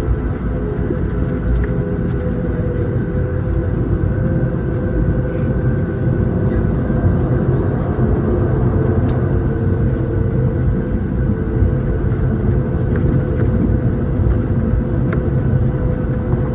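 Steady cabin noise inside a Boeing 737-700 on the ground before takeoff: a low, even rumble with a steady hum from the CFM56 engines running at idle and the air conditioning running at max.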